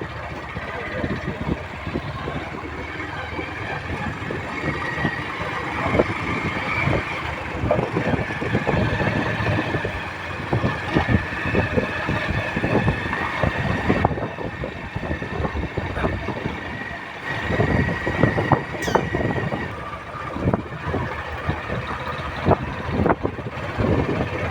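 Motorcycle riding along a bumpy road, with a steady high whine and frequent knocks and rattles.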